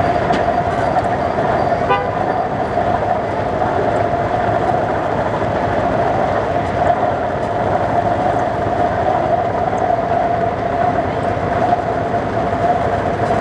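Steam whistle blowing one long, steady note, held without a break, over a hissing rush.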